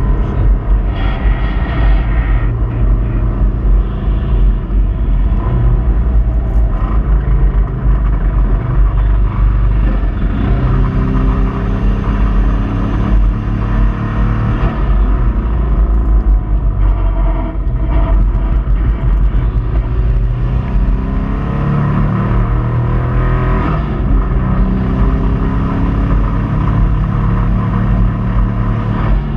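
Subaru Impreza 2.5RS's flat-four engine running hard under load, its pitch climbing and dropping repeatedly through accelerations and gear changes over a heavy low rumble. The engine has a failing rod bearing.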